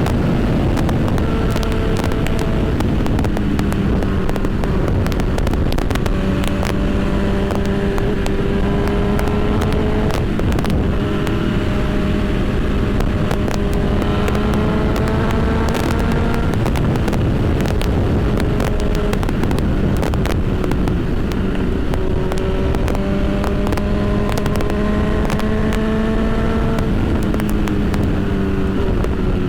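Honda CB1000R's inline-four engine pulling along on the road, its pitch rising slowly in each gear and stepping down several times at gear changes. Heavy wind rush and buffeting on the rider's microphone.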